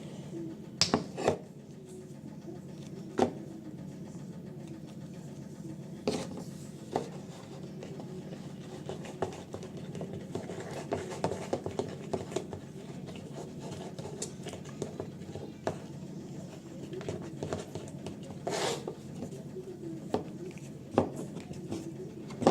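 Slime being stirred in a container: scattered taps and scrapes of the stirrer against the container, over a steady low hum.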